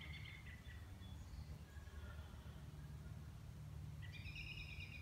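Songbirds calling faintly in woodland: short high calls at the start, fainter ones in the middle, and a louder, layered call about four seconds in. A steady low hum runs underneath.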